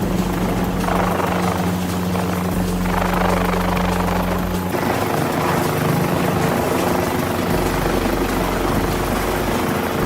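An engine running steadily, its note changing abruptly a little under halfway through.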